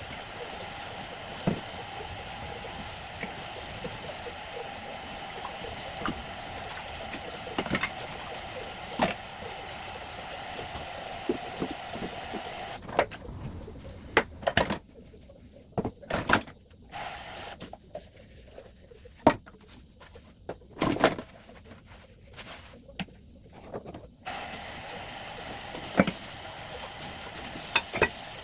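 Steady running water, likely a tap, with knocks and clatter of items being handled and washed. The water stops about halfway through and starts again near the end, leaving only the sharp clicks and knocks in between.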